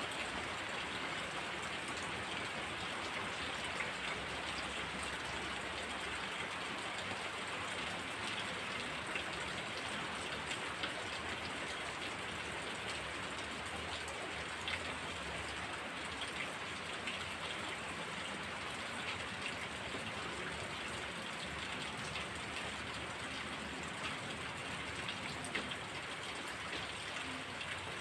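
Steady heavy rain with many individual drops ticking close by.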